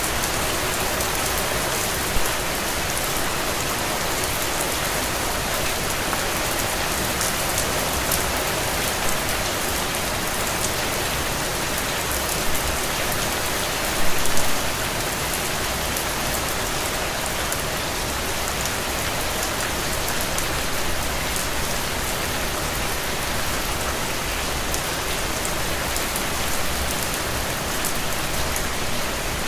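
Heavy, steady rain falling on the ground and soaking into soil and puddles, a dense even hiss with a few louder brief spatters.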